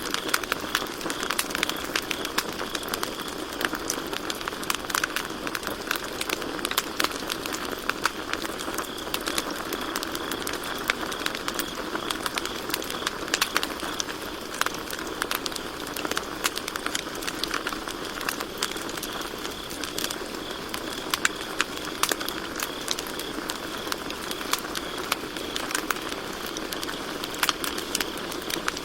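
Campfire crackling and popping with many sharp snaps over a steady burning hiss, and crickets chirring steadily throughout.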